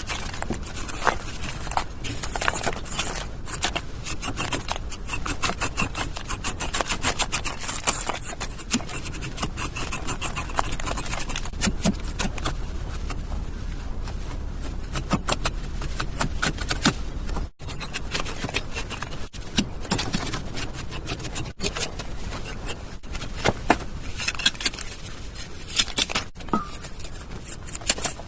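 Hand tool scraping and scratching on cement mortar in quick, uneven strokes, with a few short breaks.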